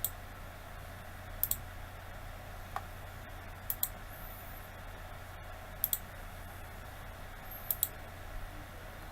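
Computer mouse clicking: about five quick pairs of sharp clicks, spaced roughly two seconds apart, over a steady low electrical hum.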